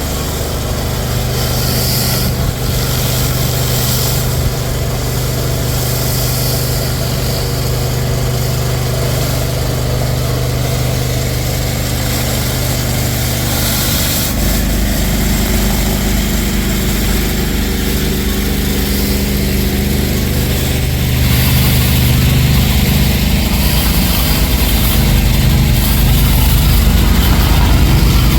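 Pressure washer engine running steadily. Its tone shifts about halfway through, and it grows a little louder about three quarters of the way in.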